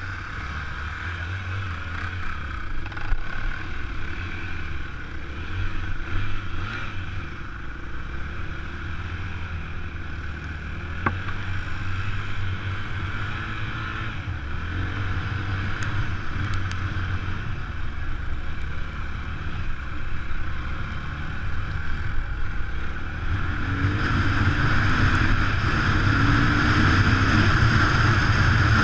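Enduro motorcycle engine running steadily while riding, with wind rushing over the microphone; it grows louder near the end.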